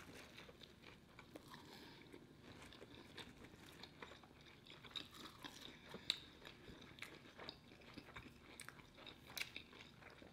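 Faint chewing, close up, with many irregular soft crunches and mouth clicks: a person eating a chicken sandwich.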